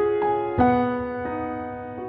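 Soft, slow background piano music: single notes struck a fraction of a second apart, each ringing on and fading away.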